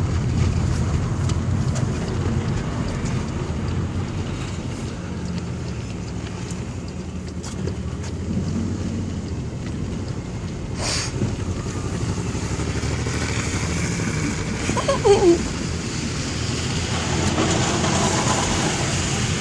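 Car driving on a snowy road, heard from inside the cabin: a steady low rumble of engine and tyres. A sharp click about eleven seconds in, and a couple of short falling squeaks around fifteen seconds in.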